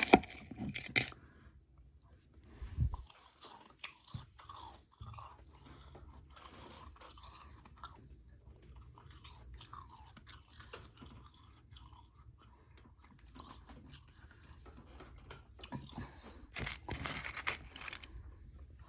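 Mouth biting and chewing frozen powdery ice with some harder chunks: a burst of loud crunching in the first second and again near the end, with softer, irregular chewing crunches in between.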